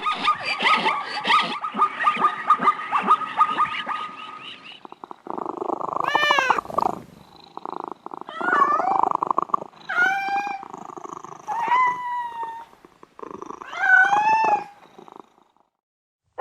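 A cat meowing about five times over a rough, rattling purr. The meows are drawn-out calls that rise and then fall in pitch. The first few seconds hold a fast, dense rattle.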